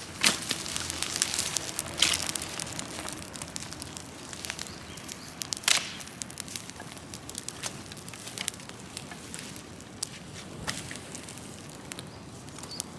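Large open wood-and-brush fire crackling, with scattered sharp pops. The loudest come just after the start, about two seconds in and near six seconds in.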